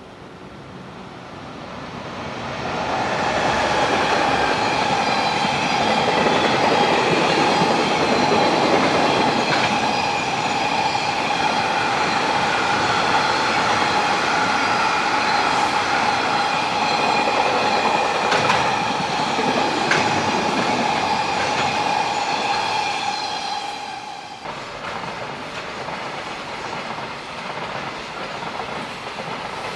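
Freight train passing: its noise builds over the first few seconds into steady rolling of wheels on rail, with a high steady tone running over it. About 24 seconds in the tone cuts off abruptly and a quieter rolling noise continues.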